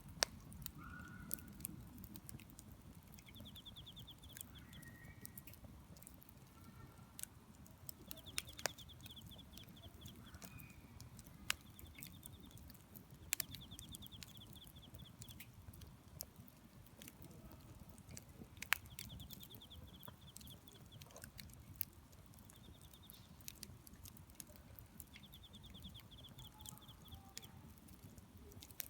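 Wood fire burning in a fire disc pan: irregular crackling with sharp pops every second or so, a few much louder, over a low steady rumble. A high rapid trill repeats several times in the background.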